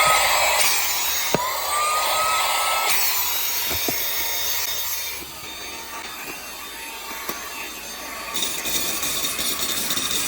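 Small handheld car vacuum cleaner motor switched on and off: a click, then a whine rising as the motor spins up, cut off after a second or so, twice. It then gives way to a steadier rushing noise that drops in level about halfway through.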